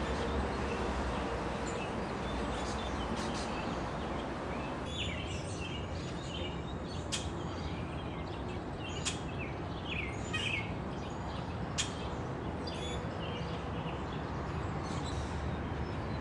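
Small birds chirping, many short high calls from about five seconds in, over a steady background rumble.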